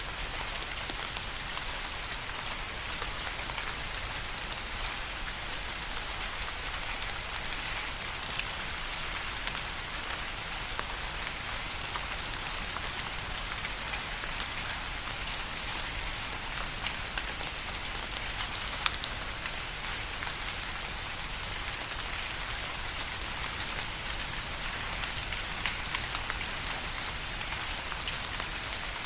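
Steady rain, with a dense hiss and many individual drops ticking on a surface.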